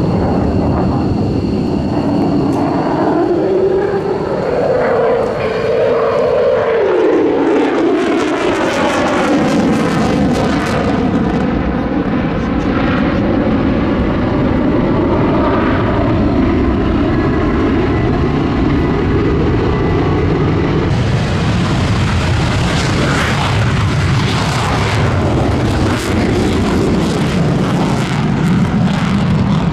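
Jet fighters flying a display close overhead, their engine noise loud and continuous. The pitch rises and then drops as a jet passes about five seconds in, followed by a swirling, phasing sound as it pulls away, and the noise turns harsher again about twenty seconds in as another pass comes on.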